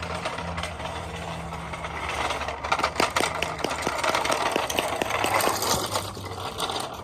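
Radio-controlled scale pickup truck running over a rough obstacle course: motor noise with tyres scrabbling and many sharp knocks and clicks as it bumps through, busiest from about two to six seconds in.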